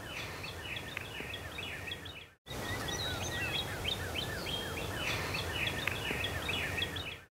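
Songbirds chirping, a quick run of short repeated chirps and falling notes, over a steady outdoor background hiss. The sound cuts out completely for a moment about two and a half seconds in, then the chirping picks up again.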